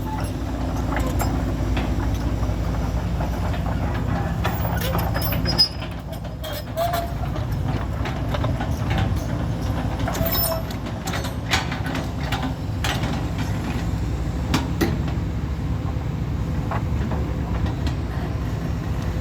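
Truck's diesel engine running steadily under way, a low rumble with scattered clicks and rattles.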